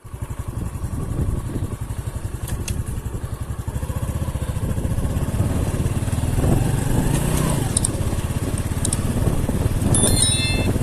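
A vehicle's engine running as it travels, gradually getting louder, with a few short high chirps heard over it in the second half.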